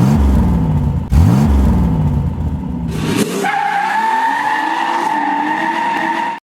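A car engine revved hard twice in quick succession. From about three and a half seconds in comes a sustained high-pitched squeal like spinning tyres, over a wavering engine note. It ends abruptly.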